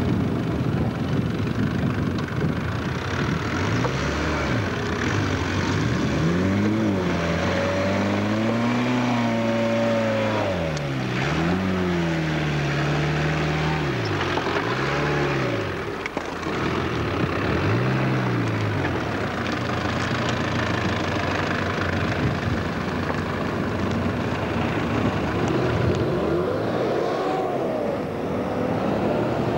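Off-road 4x4 engine revving up and falling back again and again as it works over steep muddy banks, then running steadier, with one more rev-up near the end.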